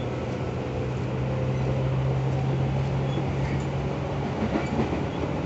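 Tobu 10000 series field-chopper-controlled electric train running, with wheel and rail noise and a steady low hum from the running gear that fades out about four seconds in.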